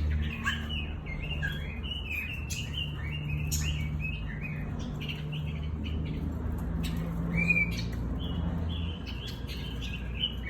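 Pekin robin (red-billed leiothrix) singing a long run of quick chirping, warbling phrases, with a brief lull midway, over a steady low hum.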